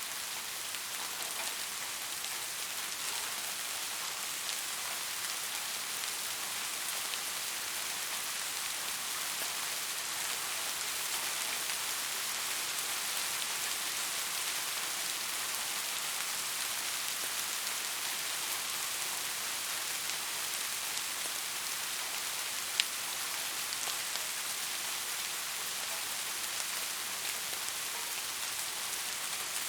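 Steady rain falling, an even hiss of patter that holds throughout. A single sharp click stands out about three-quarters of the way through.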